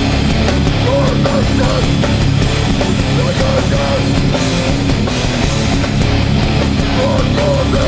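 Hardcore band playing live, loud and steady: distorted electric guitars over bass and drums, with a short bending guitar figure that keeps coming back.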